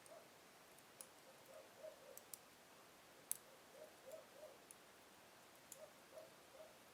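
Wood fire in a fireplace crackling softly: scattered sharp pops from the burning logs, the loudest a little before the middle, with faint soft puffs of sputtering in between.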